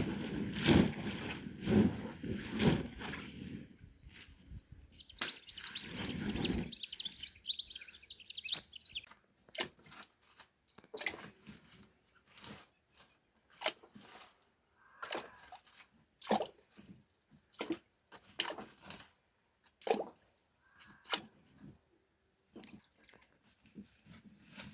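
Carrots being washed by hand in water: a few rhythmic sloshing strokes at first, then scattered drips and light knocks. A bird chirps for a few seconds in the middle.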